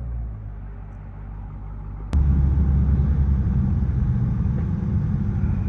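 Low exhaust drone of a 6.4-litre HEMI V8 with its middle mufflers cut out, heard from inside the car while driving. It jumps suddenly louder about two seconds in, then holds steady.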